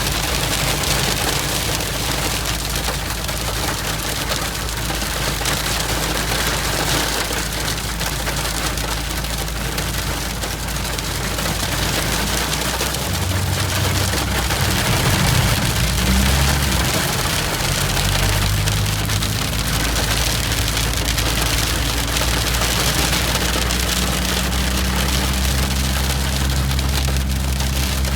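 Hail falling and pattering densely and steadily on a hard surface, with a low hum underneath.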